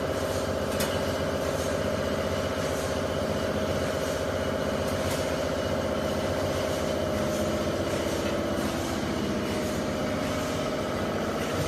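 Automatic mattress tape edge sewing machine running steadily, a constant mechanical hum with a few faint clicks.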